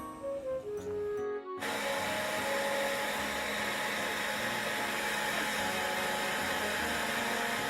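Background music for about a second and a half, then an abrupt cut to a hand-held hair dryer blowing steadily.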